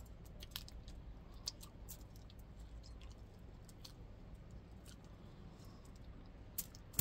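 Quiet eating: faint chewing with scattered small sharp clicks and smacks at irregular intervals.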